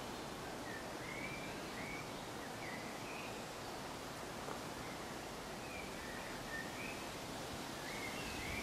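Steady woodland background hush with a bird calling on and off in short, high chirps.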